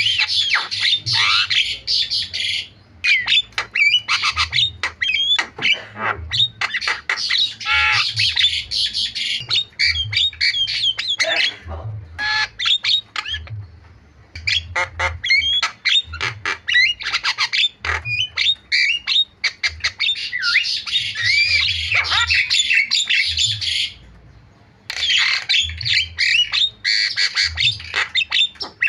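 Javan myna (jalak kebo) singing a loud, fast, chattering stream of squawks, whistles and harsh notes, with a few short pauses.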